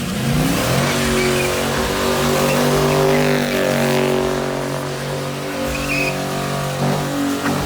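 Car engine revving up fast and held at high revs, tyres squealing and spinning underneath as in a burnout; the revs dip briefly near the end.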